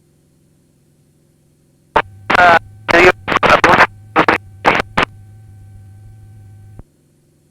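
A voice transmission over the aircraft's VHF radio in the headset: it opens with a click about two seconds in, a harsh, clipped voice over a steady hum, then cuts off abruptly near the end. Before it, only a faint low hum.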